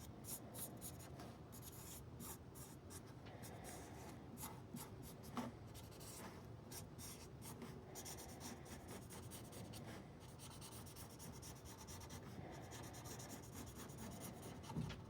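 Faint dry scratching strokes, irregular and several a second, from hand work on the frets of a Martin D16 acoustic guitar during fret levelling.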